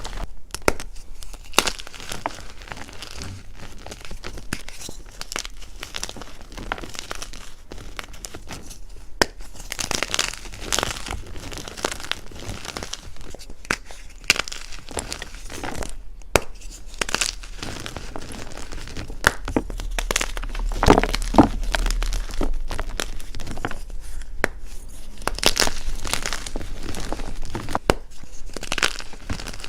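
Blocks of Picsil gym chalk being crushed and crumbled, a dense run of dry, irregular crackling and crunching.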